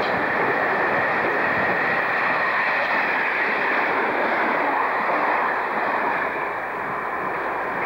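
Electric multiple unit in Network SouthEast livery passing through the station at speed: a steady rush of wheels on rail with a faint high whine, easing off slightly near the end.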